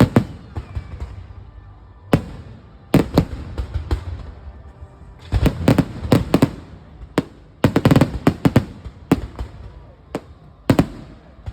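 Fireworks exploding in volleys: clusters of sharp bangs, several a second, separated by gaps of a second or two.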